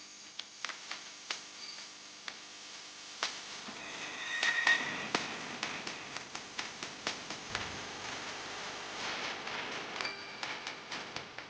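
Scattered light clicks and taps, with a brief high ringing tone a little before the middle.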